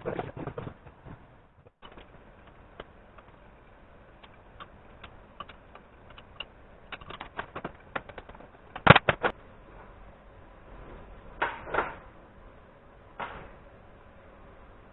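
Scattered clicks and knocks of metal engine parts and hand tools being handled, with a sharp clank about nine seconds in and a few more clatters near the end.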